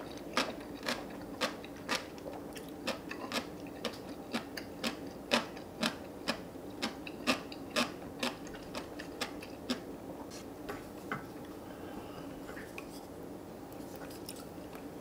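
Close-miked chewing of crisp seokbakji radish kimchi: sharp crunches in a steady rhythm of about two a second, which thin out and soften after about eleven seconds as the radish is chewed down.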